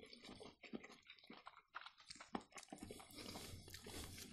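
Faint chewing and mouth sounds of people eating, with many small clicks and crackles, a little busier in the second half.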